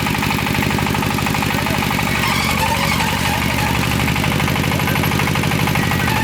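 An engine running at a steady speed with an even, fast firing rhythm and no change in pitch.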